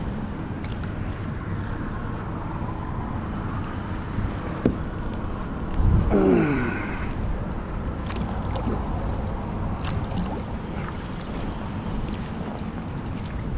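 Choppy, fast-running tidal water sloshing and gurgling against a kayak hull, with wind on the microphone. A few sharp knocks, and about six seconds in a short, louder sound falling in pitch.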